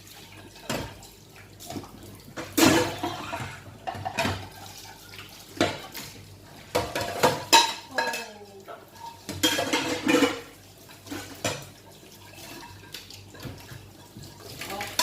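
Plates and cutlery clattering and knocking against each other in a sink while dishes are washed by hand, with tap water running at times.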